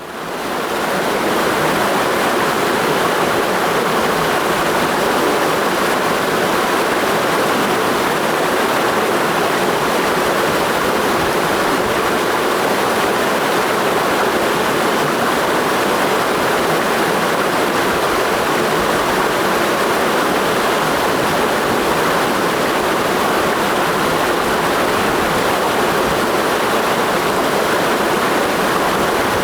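Clear mountain stream running steadily, a continuous rush of water that fades in over the first second.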